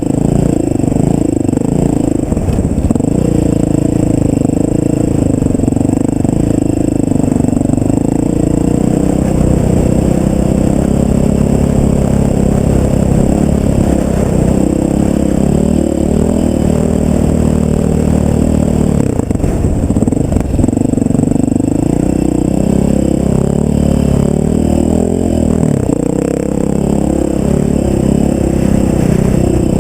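Off-road vehicle's engine running while riding a dirt trail, its revs rising and falling continuously as the throttle changes.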